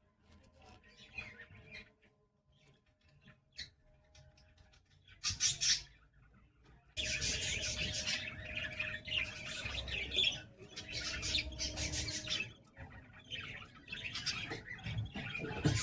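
Budgerigars chirping and chattering, sparse and faint at first, with a loud burst about five seconds in, then busier and louder from about seven seconds in.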